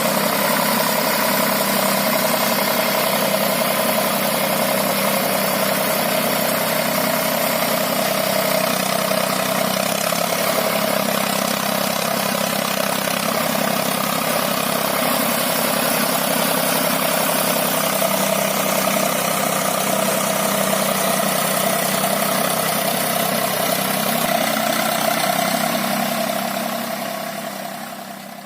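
Eicher 485 tractor's diesel engine running steadily, fading out near the end.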